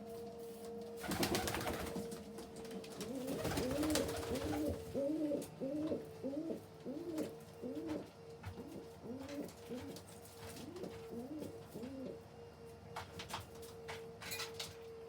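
Domestic pigeon cooing: a run of about sixteen quick, repeated coos lasting several seconds, over a steady low hum. There are brief rustling bursts before the cooing starts.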